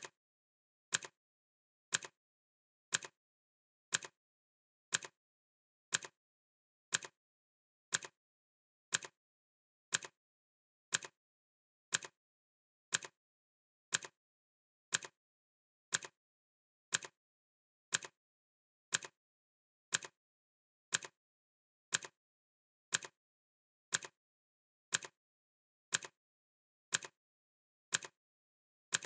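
Clock ticking sound effect: one sharp tick every second, evenly spaced, with dead silence between ticks.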